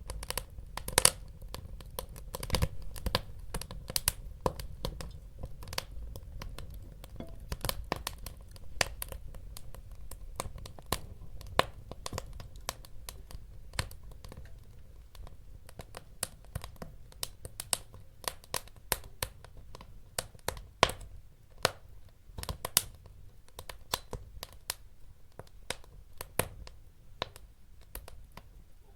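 Wood fire burning in a fireplace, with many sharp irregular crackles and pops over a low steady rumble of the flames.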